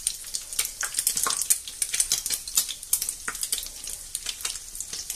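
Torrijas (bread slices soaked in milk and egg) shallow-frying in hot sunflower oil: a steady crackling sizzle with a few sharper pops.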